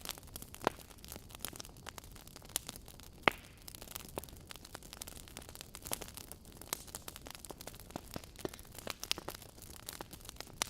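Wood fire crackling: irregular sharp pops and snaps over a low hiss, with a louder pop about three seconds in.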